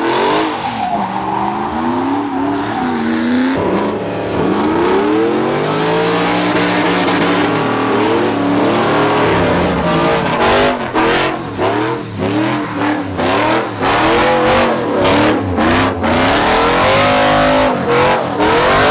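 High-performance car engine revved hard again and again, its pitch climbing and falling. In the second half the sound chops in and out rapidly.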